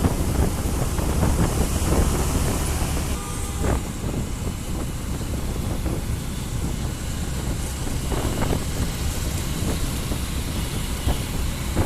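Steady low rumble with rushing wind noise from a moving vehicle. The higher hiss eases a little about three seconds in.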